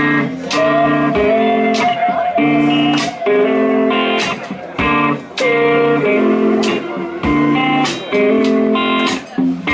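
Live blues band playing an instrumental intro: electric guitar chords with drum hits on a steady beat, and a sustained slide-guitar line over them.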